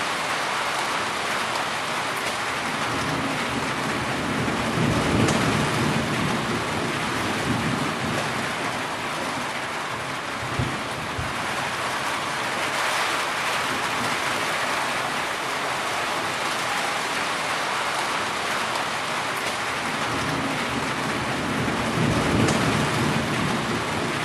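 Heavy rain falling steadily, with low rumbles of thunder about five seconds in and again near the end.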